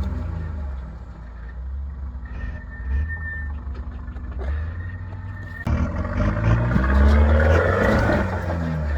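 Nissan Patrol four-wheel drive's engine running at low revs off-road, with a faint thin whine in the middle, then revving up suddenly about six seconds in, its pitch rising.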